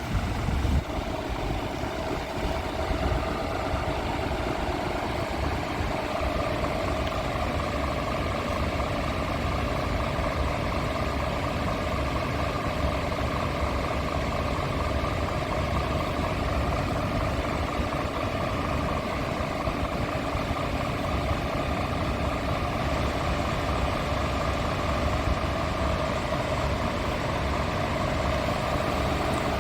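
Scania G500 truck's 13-litre inline-six diesel idling steadily.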